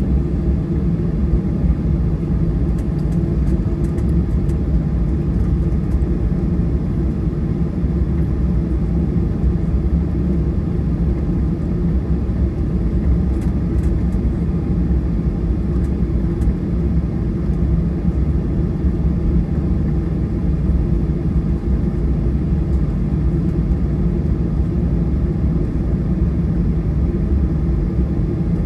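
Steady low rumble of a Boeing 737-800's CFM56-7B turbofan engines, heard from inside the rear of the cabin, with a few faint ticks.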